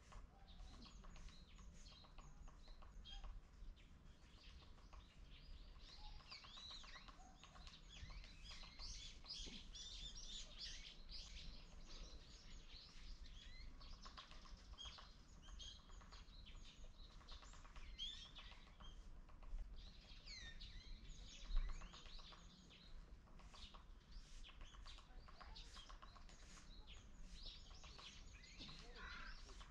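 Small birds chirping and calling, many quick high chirps overlapping throughout, over a faint low outdoor rumble. A single brief low thump comes about two-thirds of the way through.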